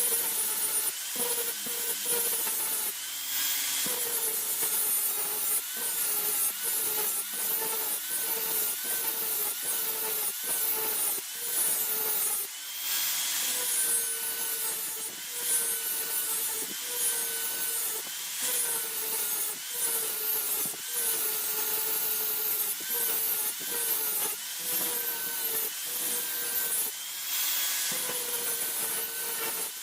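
A hand tool is worked back and forth in steady, rhythmic strokes, about one and a half a second, rasping against the work. A ringing tone bends slightly with each stroke.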